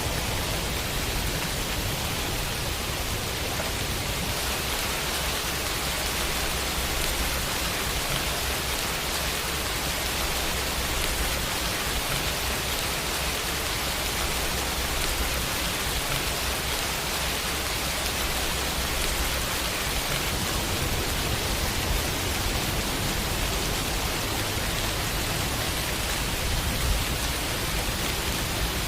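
Steady rain falling on a window pane, an even hiss with a few slightly louder drops near the end.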